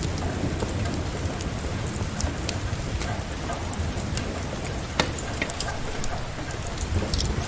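Steady rain together with a crackling wood fire: a constant hiss over a low rumble, with scattered sharp pops and one louder snap about five seconds in.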